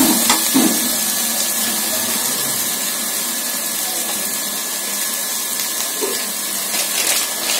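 Chopped onions with ginger and ginger-garlic paste sizzling steadily in ghee in an aluminium pressure-cooker pan, with a few light ticks.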